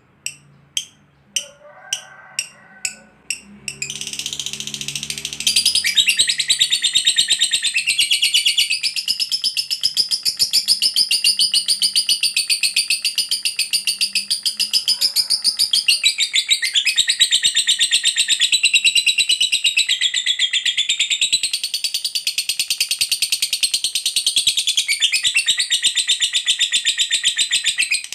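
Lovebird giving its long, unbroken, very rapid chattering trill, the "ngekek panjang" call that keepers play to set other lovebirds calling. It starts about six seconds in, after a few seconds of evenly spaced sharp clicks.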